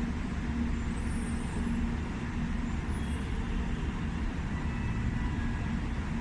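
Steady mechanical hum and rumble of a 700 Series Shinkansen at the station platform, with faint brief high hisses about a second and three seconds in.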